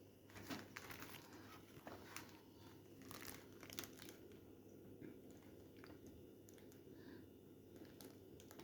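Faint crinkling, crackling and small clicks of objects being handled, thickest in the first half, over quiet room tone with a low steady hum.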